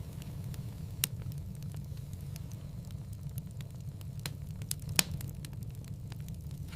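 Wood fire crackling in a fireplace: a steady low rumble of the flames with scattered small pops and two sharper snaps, the louder one about five seconds in.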